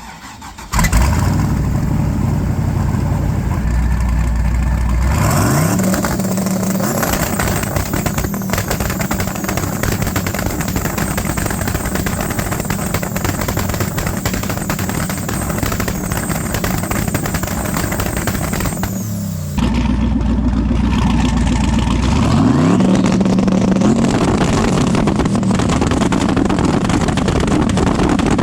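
Turbocharged drag car engine firing up about a second in and held on its two-step launch limiter, a loud, continuous rapid popping and banging from the exhaust and wastegate. The revs sweep up twice along the way.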